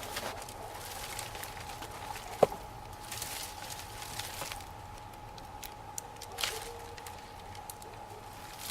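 Bonfire of damp raspberry canes and boards burning, with irregular small crackles and one sharp pop about two and a half seconds in.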